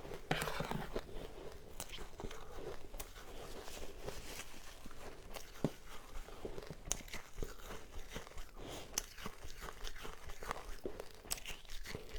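Powdery ice being bitten and chewed close to the microphone: soft, continuous crunching with scattered crisp cracks, busiest about half a second in.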